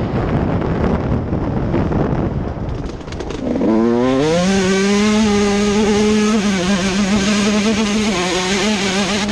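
Motocross bike engine: a rough rumble, then about three and a half seconds in it revs up quickly and holds a steady high note under throttle.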